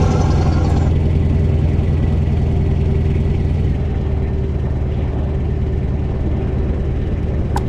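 Scania V8 diesel truck engine running steadily with a deep, heavy drone, the level easing slightly. A brief higher hiss fades out within the first second.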